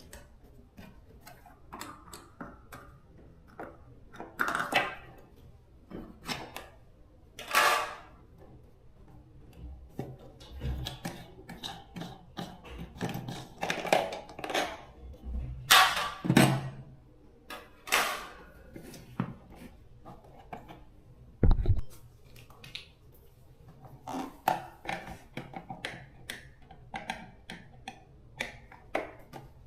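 Hand tools and metal parts being handled during repair work: irregular knocks, clicks and clatters with several longer scrapes, and one heavy thump a little past two-thirds of the way in.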